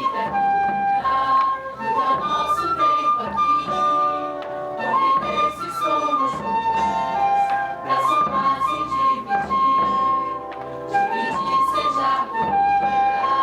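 Music led by a flute playing a melody of held notes.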